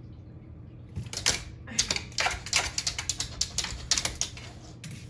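Rapid, irregular clicking and tapping in short clusters, over a low steady hum.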